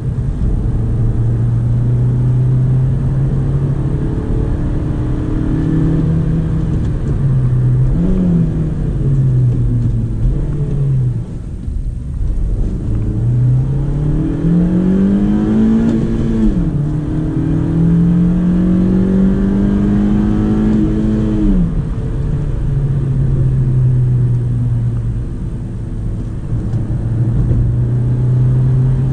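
Honda Civic eighth-generation 1.8 four-cylinder engine heard from inside the cabin. It runs steadily, eases off briefly about a third of the way in, then is revved hard through the gears of the manual gearbox. The pitch climbs steeply and drops sharply at two upshifts, a little past halfway and again a few seconds later, before settling back to a steady cruise.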